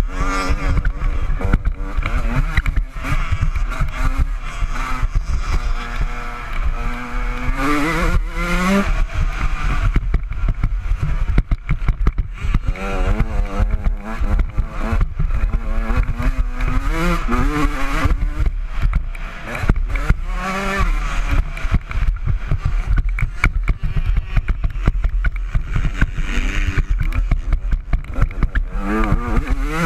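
Honda CR125 two-stroke single-cylinder engine revving up and down again and again as the motocross bike is ridden hard round a dirt track, with sharp climbs in pitch between gear changes, over a steady low rumble.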